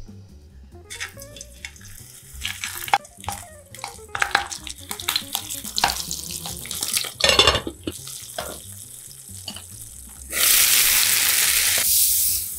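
Pork-stuffed green peppers frying in hot oil in a pan, with clinks of metal tongs and a scattered crackle. About ten seconds in, a loud steady sizzle lasts for about two seconds.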